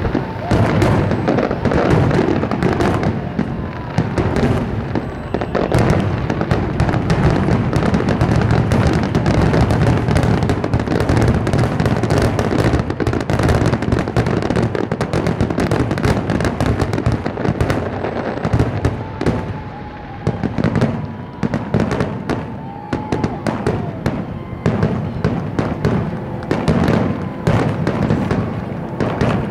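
Aerial fireworks in a finale barrage: shell bursts and crackles coming thick and fast with hardly a gap, their booms running into each other.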